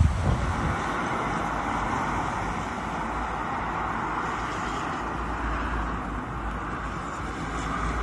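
Steady road vehicle noise: an even hiss with a low rumble underneath.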